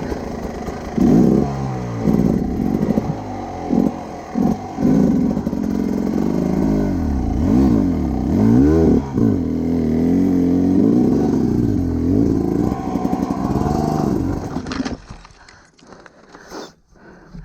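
Adventure enduro motorcycle engine, the throttle opened and closed over and over so the revs rise and fall again and again, with some clatter. About fifteen seconds in, the engine sound drops away sharply to much quieter.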